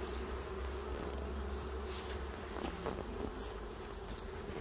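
Honeybees buzzing in a steady hum around an open hive during an inspection, with a few faint clicks.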